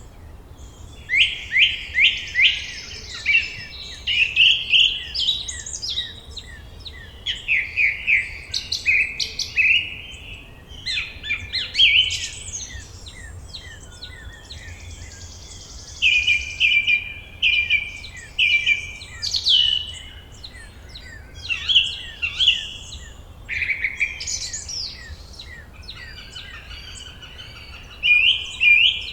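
Several songbirds singing and chirping together in a forest dawn-chorus style. Phrases of quick repeated notes, trills and down-slurred whistles overlap and come in bursts every second or two, with a couple of brief lulls.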